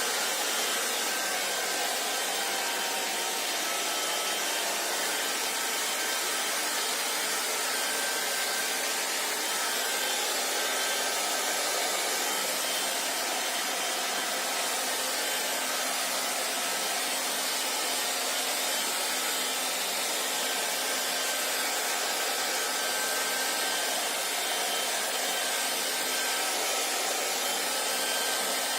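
Hair dryer running steadily, a continuous rush of blown air with a faint motor hum underneath.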